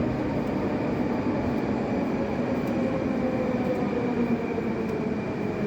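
Moscow Metro train running along the station platform: a steady rumble with a faint whine that slowly falls in pitch.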